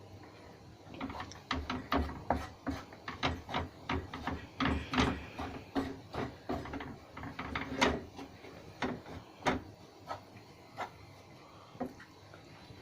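Knife slicing cheese on a cutting board: a run of quick, irregular knocks of the blade hitting the board, starting about a second in and thinning out near the end.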